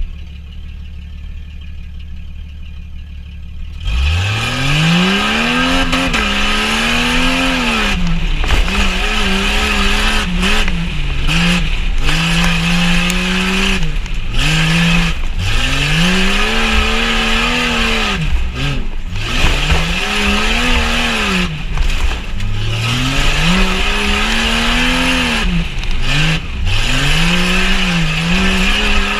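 Jeep Cherokee XJ engine under hard throttle, heard from inside the cab: a low steady rumble at first, then about four seconds in it revs up, and keeps climbing and dropping in pitch every second or few as the throttle is worked on and off. This is how an engine sounds while a truck is driven hard over a tough truck course.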